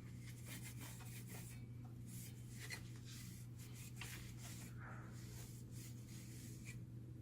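Light rubbing and scratching with scattered small clicks as fuser parts are handled by hand, over a steady low electrical hum.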